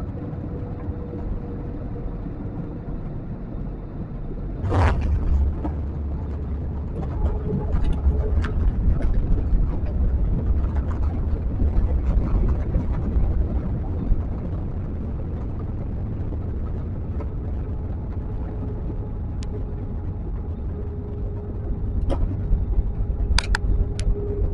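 Jet airliner cabin noise: steady engine and air rumble, then a sharp thud about five seconds in as the main wheels touch down, followed by a heavier low rumble of the wheels rolling along the runway. A few light clicks come near the end.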